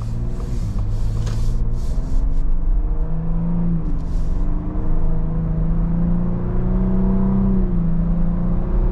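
Ford Bronco Raptor's 3.0-litre EcoBoost V6 and exhaust in normal exhaust mode, heard from inside the cabin as the truck accelerates from low speed. The engine note climbs, drops back at an upshift of the 10-speed automatic about four seconds in, climbs again and drops at a second upshift near the end.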